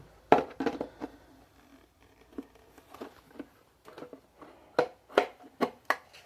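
Plastic clicks and knocks from handling a small 12-volt car vacuum, taking off its dust cup and pulling out the filter, with the motor off. About a dozen separate clicks, bunched near the start and again in the second half.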